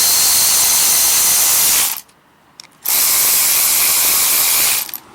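A handheld power driver runs in two steady bursts of about two seconds each, with a short pause between, tightening down a fastener on a lawn mower carburetor.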